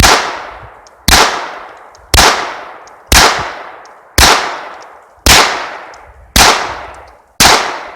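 Eight gunshots fired at a steady pace of about one a second, each a sharp crack trailing off in a long echoing decay.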